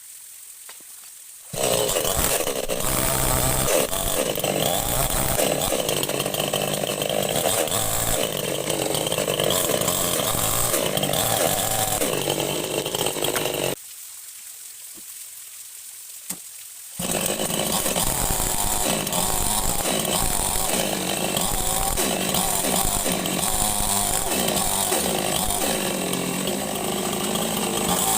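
Chainsaw running and cutting wood. It starts about a second and a half in, stops for about three seconds past the middle, then runs again.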